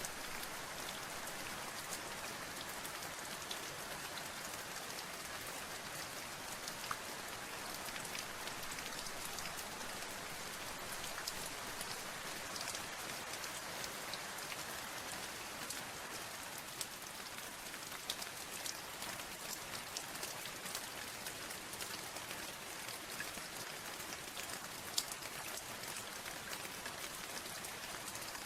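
Steady rain with the close, separate clicks of individual drops landing on a surface, as an even hiss with one louder drop about 25 seconds in.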